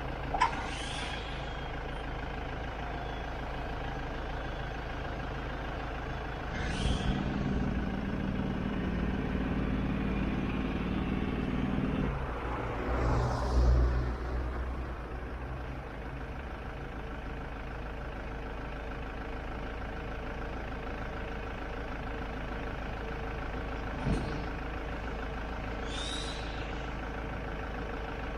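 Nissan Navara spec-lift truck's diesel engine running steadily, with a deeper, louder stretch of running from about 7 to 12 seconds in and a brief surge near 13 seconds. Several short hisses sound over it, near the start, at about 7 and 13 seconds, and twice near the end.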